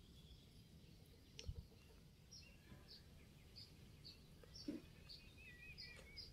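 Quiet outdoor background with a bird chirping faintly, short chirps about twice a second and a brief warble near the end. Two soft low thumps come at about a second and a half and just under five seconds in.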